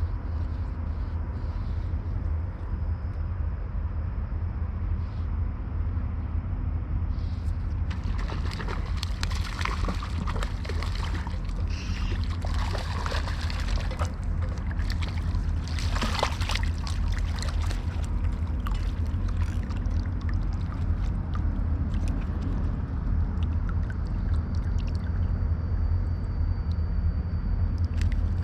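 River water rushing and sloshing, with a run of louder splashing and trickling from about eight to seventeen seconds in.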